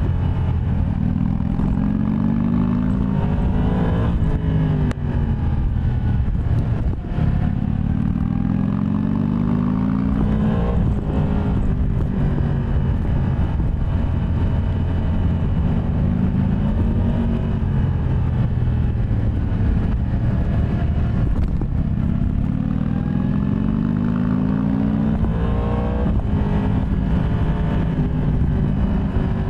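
Yamaha MT-10 SP's crossplane inline-four engine under way, revving up in pitch several times and dropping back as the throttle eases or a gear changes.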